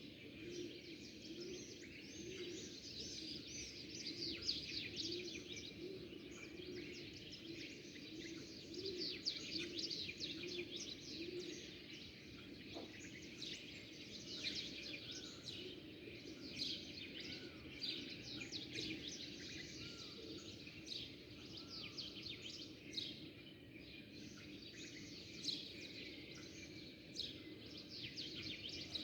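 Many small birds chirping and twittering at once in a dense, continuous chorus of short, high calls. A low pulsing hum runs underneath, most noticeable in the first half.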